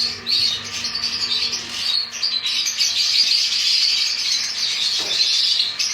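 A flock of small aviary birds chirping, many overlapping high chirps without a break.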